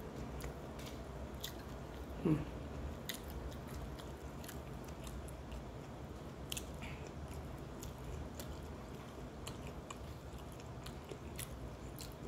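Close-up chewing and wet mouth clicks of a person eating rice and fried food by hand, with a short hummed voice sound about two seconds in.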